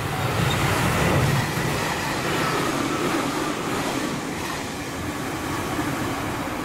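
JR Shikoku 8000 series electric limited-express train passing at speed. The rumble of its wheels on the rails is loudest about a second in, then fades as it draws away, with a faint falling motor whine.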